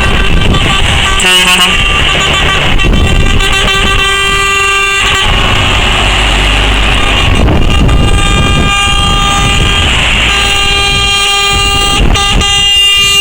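Lorries passing in a convoy, sounding their air horns in long, overlapping blasts over the rumble of diesel engines.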